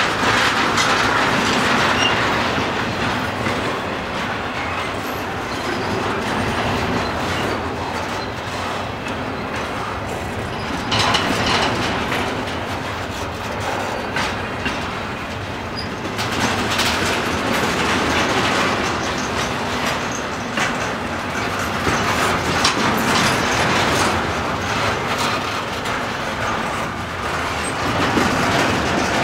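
Double-stack intermodal container cars rolling slowly past, steel wheels clattering over the rails in a steady rumble that swells and fades as each set of wheels goes by.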